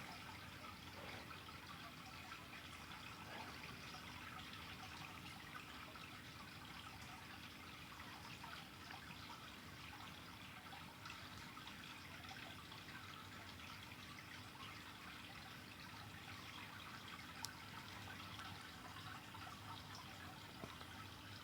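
Faint campfire crackling, with many small ticks and one sharper crack about three quarters of the way through.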